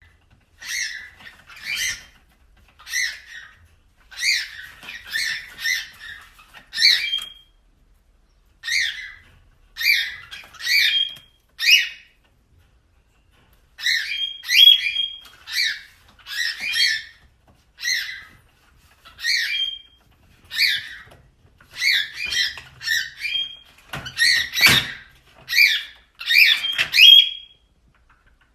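A parrot calling again and again in short calls, one or two a second, a few of them ending in a brief whistle. There is a pause of about a second about halfway, and the loudest calls come near the end.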